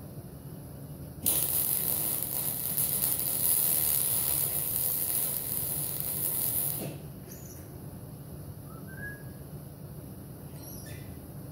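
Welder laying a continuous weld on sheet-metal body panel, a steady crackling sizzle that starts about a second in and stops after about five and a half seconds.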